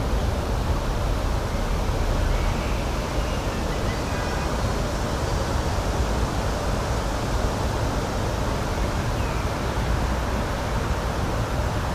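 Steady rushing outdoor ambience with a strong low rumble, such as wind or running water, and a few faint high bird calls a few seconds in and again near the end.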